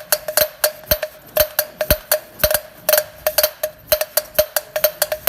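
Rapid, uneven metal-on-metal tapping, about five to seven strikes a second, each with a short ring at the same pitch, like a hammer working on a metal engine part.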